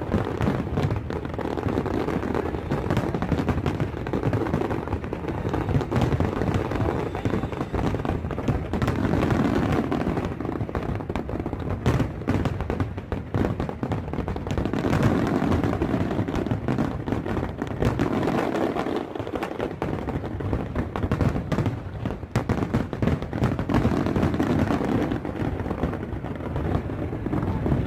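Fireworks going off in quick succession: many sharp bangs over a dense, continuous crackle.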